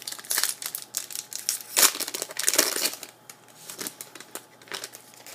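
A trading card pack's wrapper being torn open and crinkled by hand: a rapid, irregular run of crackles and snaps, loudest in the middle.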